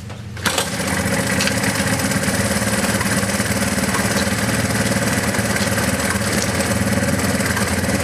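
1983 Honda ATC 200S three-wheeler's single-cylinder four-stroke engine catching on the first pull of a cold start about half a second in, then idling steadily.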